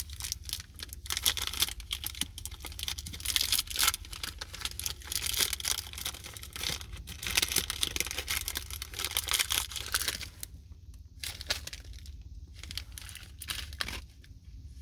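Crinkling and tearing of a snack bar's wrapper as it is opened: dense crackling for about ten seconds, then sparser crackles near the end.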